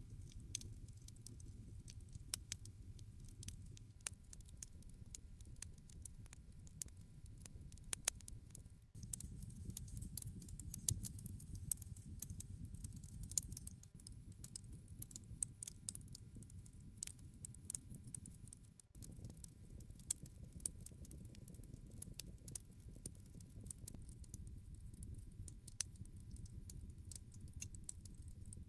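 Wood campfire burning: irregular sharp crackles and pops over a low, steady rustle of flames. The background level shifts abruptly twice, about a third and two thirds of the way in.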